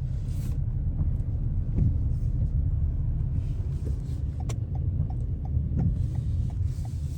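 Steady low rumble of a car driving, as heard from the cabin, with a light regular ticking of about three a second starting about halfway through.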